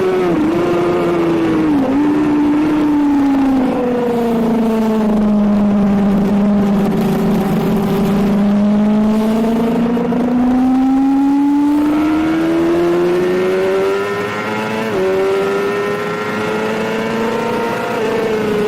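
Suzuki GSX-R750 K7 inline-four revs falling, with two quick dips in the first two seconds as it brakes and downshifts. The revs stay low through the corner, then climb steadily as it accelerates out, with a brief step up in pitch about fifteen seconds in.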